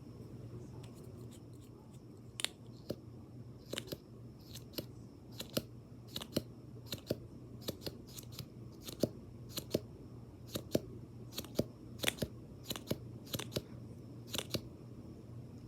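A string of small, sharp, close-up clicks, irregularly spaced at roughly two a second, over a low steady hum.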